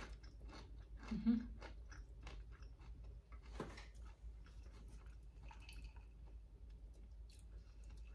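A person chewing a crunchy bite of food close to the microphone, with crisp crunches over the first few seconds, loudest about a second in, then quieter chewing.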